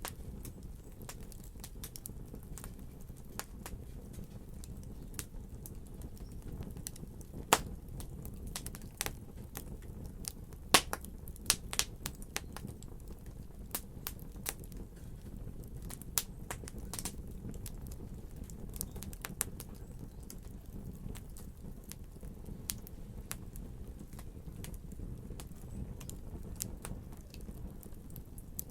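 Wood fire in a fireplace crackling: irregular sharp pops and snaps over a steady low rumble, with a few louder pops in the first half.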